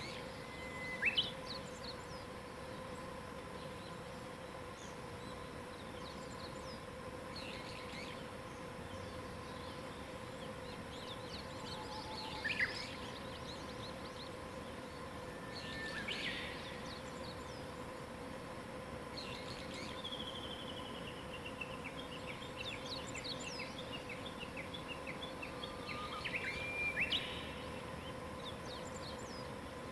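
Wild birds singing in short phrases at intervals, one with a long sliding whistle followed by a run of quick repeated notes, over a faint steady hum.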